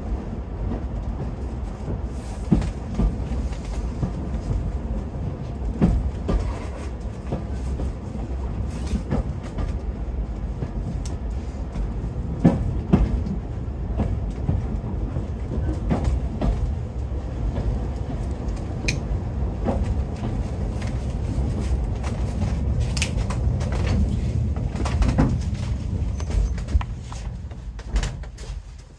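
Riding on a heritage railway train in motion: a steady low rumble of wheels running on the rails, with irregular clicks and knocks from the track.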